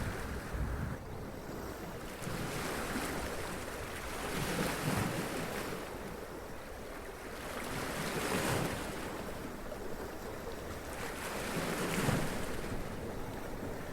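Sea waves running up over rocks and splashing, the surf swelling and easing in surges every three to four seconds.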